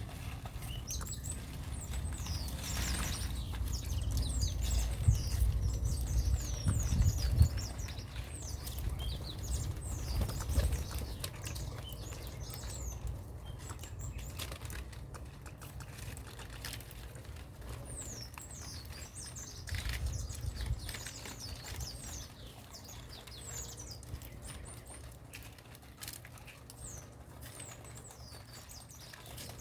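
Small birds chirping with many quick, high notes that each slide downward, overlapping throughout. A low rumble runs under them, loudest in the first ten seconds and again briefly about twenty seconds in.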